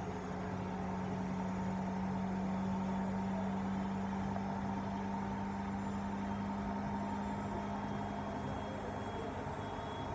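Bosch washing machine running in its test mode: a steady motor hum whose pitch rises a little over the first few seconds and then holds.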